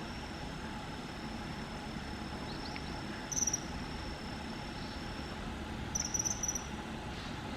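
Common kingfisher giving short, shrill, high-pitched calls: one brief burst about three seconds in and a quick run of three or four near six seconds. Under them runs a steady background noise, with a thin high whine that stops about five seconds in.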